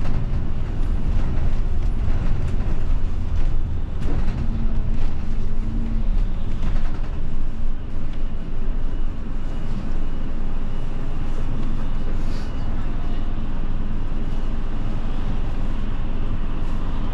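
Inside a route bus as it drives: the engine and road noise make a steady low rumble, with a knock or rattle about four seconds in. The sound becomes more even about halfway through.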